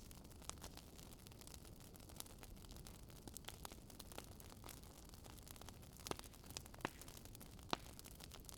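Faint fire crackling: scattered small snaps and pops over a low, steady rumble, with a few louder pops in the second half.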